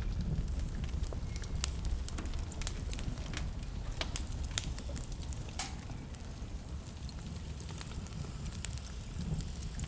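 Wood fire burning in a fireplace: a low steady rumble of flames with frequent irregular sharp crackles and pops, busier in the first half.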